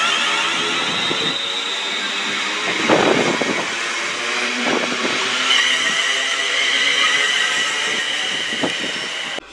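Class 350 Desiro electric multiple unit running past and pulling away, with a steady high electric whine and rail noise. A few knocks come from the wheels, about 3 s in, near 5 s and near 9 s, and a second whine joins about halfway through. The sound cuts off just before the end.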